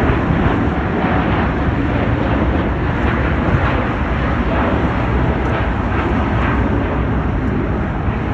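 Jet airliner's engines passing close by: a loud, steady rumble with a rushing roar.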